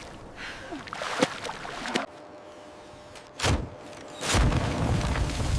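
A few scattered knocks and a short, sharp rushing burst, then a loud, deep rumble sets in about four seconds in and keeps going.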